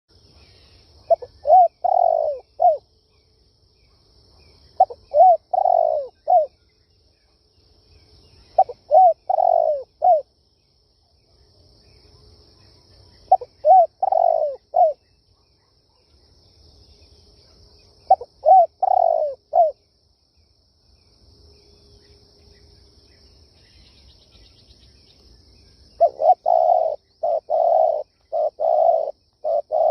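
Spotted dove cooing: five short phrases of three or four soft, falling coos, about one every four to five seconds, then a quicker run of short coos near the end. This is the spotted dove's territorial call, used here as a lure to draw in wild doves.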